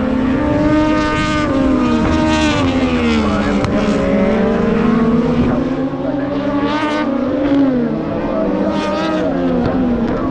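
MotoGP racing motorcycles, with 1000 cc four-cylinder four-stroke engines, revving hard. Several bikes can be heard at once, their engine notes repeatedly rising and falling through gear changes.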